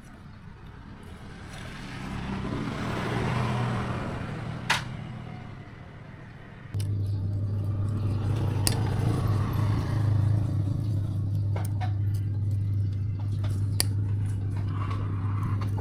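A motor starts suddenly about seven seconds in and runs on with a steady low hum, with scattered clicks and taps over it; before that, a swell of noise rises and falls with one sharp click.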